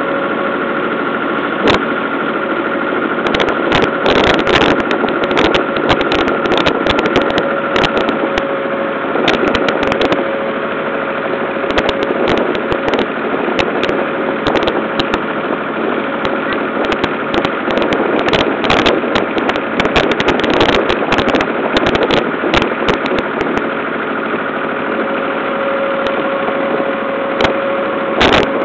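Small ferry boat's motor running steadily underway, with frequent sharp crackling knocks over the engine hum from a few seconds in.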